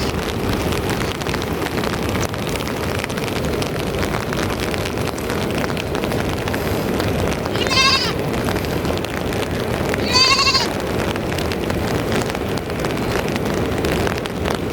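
A young sheep or goat bleats twice, about two and a half seconds apart: short, high, wavering calls, each about half a second long, over a steady background hiss.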